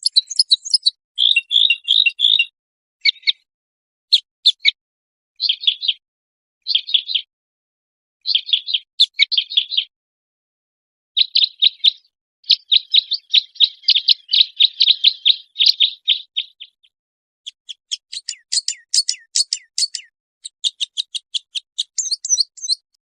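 Songbird song from an edited birdsong tutoring mix: a string of high, rapid chirped and trilled phrases broken by short, completely silent gaps. A longer stretch of continuous trilling comes in the middle, and fast rattling trills near the end.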